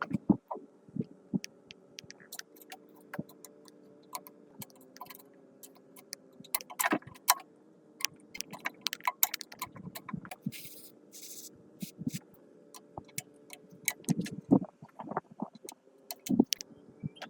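Irregular clicks and knocks of tools and parts being handled during restoration work, over a faint steady hum, with a brief hiss about eleven seconds in.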